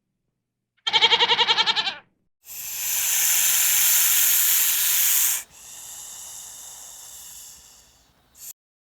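A short, fast-quavering bleat from a young animal, then a loud hiss lasting about three seconds that drops to a fainter, thinner hiss and dies away.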